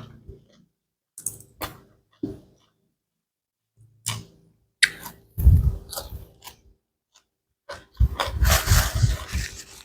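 Close-miked eating sounds: chewing, lip smacks and crunching in short separate bursts, growing into a busy stretch of steady chewing near the end.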